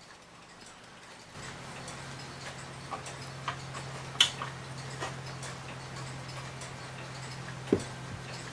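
1900s New Haven Clock Co. mantel clock ticking, with a few sharper clicks among the ticks. A low steady hum comes in about a second in.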